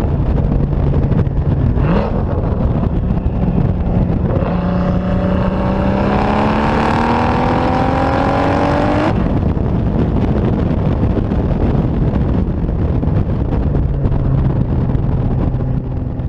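Turbocharged VR6 engine of a 2004 VW R32 with a catless downpipe and catback exhaust, running loud. A short rev about two seconds in, then a pull of about five seconds with the pitch rising steadily, cut off sharply in the middle, and back to steady running after it.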